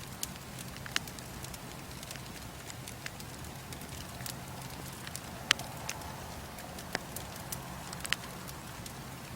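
Bonfire crackling: irregular sharp pops and snaps of burning wood over a steady hiss, with a few louder pops scattered through.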